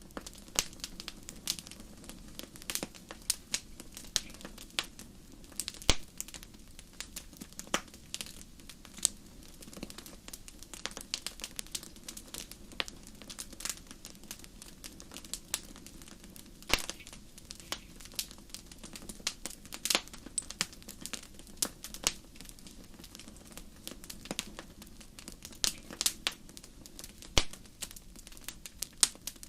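Wood fire crackling in a fireplace: irregular sharp pops and snaps, several a second and some much louder than others, over a low steady rumble of the flames.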